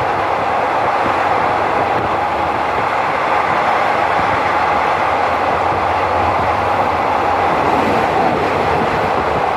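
Passenger train running at a steady speed: an even, unbroken running noise of the wheels on the rails, with no clear rhythm and no change in level.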